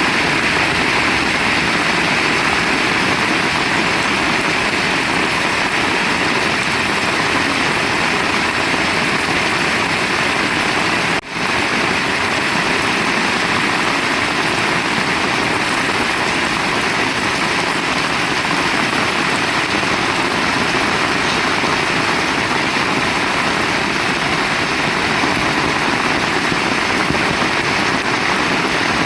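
Heavy rain pouring down in a steady, dense rush, with a momentary dip about eleven seconds in.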